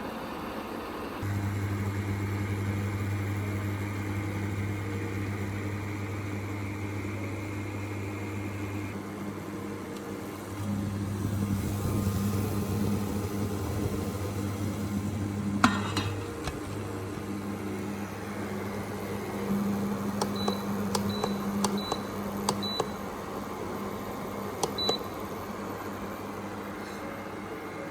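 An electric kitchen appliance humming steadily; the hum starts about a second in and drops out briefly partway through. There is a sharp click midway, and a few small clicks with short high beeps come near the end.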